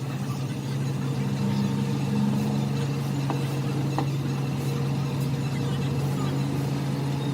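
A machine running steadily with a low, even hum, with a couple of faint ticks about three and four seconds in.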